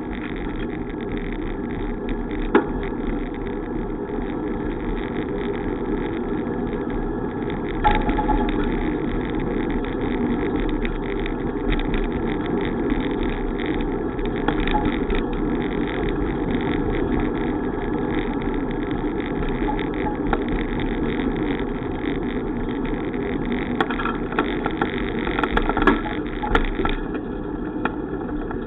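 Steady rush of wind and tyre noise from a moving bicycle, with a few sharp knocks along the way.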